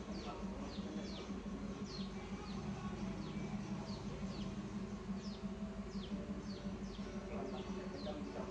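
A small bird calling over and over, short falling chirps about twice a second, over a steady low hum.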